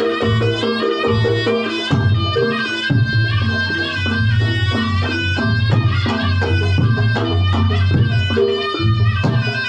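Reog Ponorogo gamelan music: a slompret (Javanese shawm) plays a reedy, wavering melody over kendang drumming and steady low pulses from gong-chimes.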